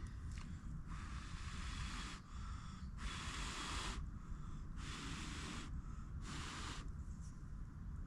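A person blowing on the campfire's embers in four long breaths, each a steady hiss, to bring them back to a glow.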